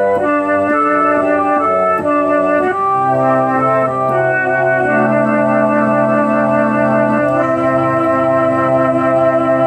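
Yamaha CK61 stage keyboard playing a sustained, organ-like patch: a moving line of short notes over chords, then long held chords over a steady bass note.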